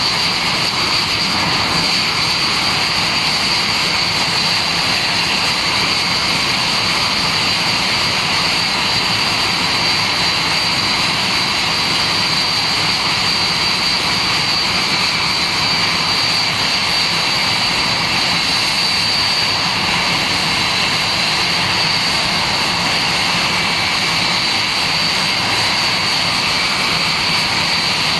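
F-86 Sabre's turbojet engine running steadily during a ground engine run: a loud, even rush of jet noise with a steady high-pitched whine on top.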